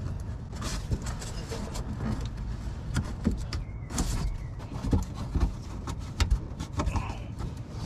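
Scattered clicks, taps and knocks of hands squeezing and working a plastic hose clip on the fuel tank plumbing, over a low rumble.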